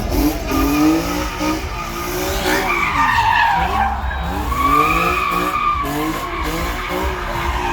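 A car's engine revving up and down while its tires squeal as it slides, with the loudest squeals about three seconds in and again about five seconds in.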